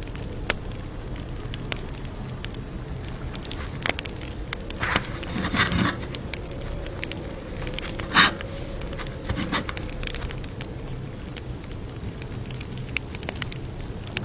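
Campfire crackling: frequent small sharp pops over a steady low rumble of burning wood. There are a few louder bursts about five to six seconds in and again about eight seconds in.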